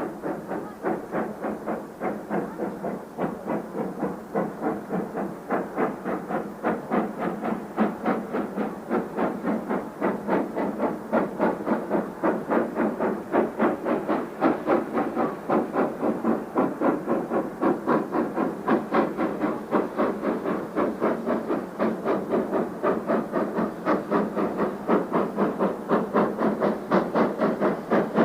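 SGS class 0-6-0 steam locomotive exhaust chuffing in a steady, even rhythm, growing gradually louder.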